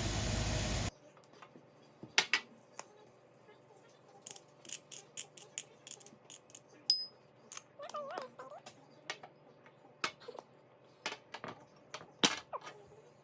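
A loud steady rushing noise cuts off about a second in. A string of light clicks and taps follows, with a short wavering squeak a little past halfway.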